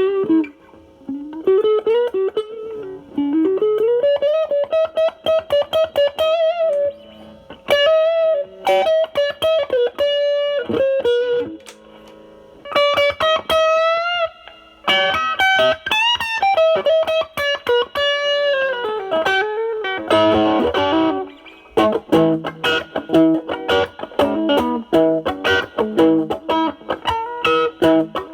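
Semi-hollow electric guitar through a NOBELS ODR-1 overdrive into a Marshall Valvestate clean channel, with the overdrive cleaned up by rolling back the guitar's volume, playing single-note blues lead lines with string bends and vibrato. About two-thirds of the way through it changes to rhythmic chord playing.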